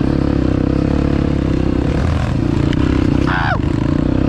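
Dirt bike engine running steadily under riding, its pitch easing briefly about two seconds in. A short high-pitched sound falls in pitch about three seconds in.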